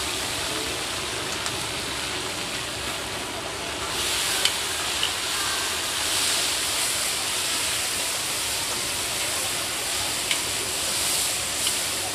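Sliced pork sizzling in hot oil in a large wok as it is stir-fried with two metal spatulas, which scrape and clink against the pan a few times. The sizzle gets louder and brighter about four seconds in.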